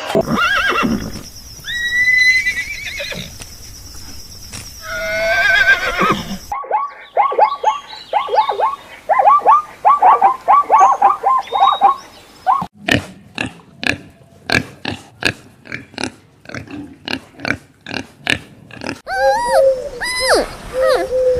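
Several different farm animal calls one after another. First come a few drawn-out, gliding calls, then a fast run of short repeated calls. After that there is a stretch of sharp clicks, about three a second, and arching calls near the end.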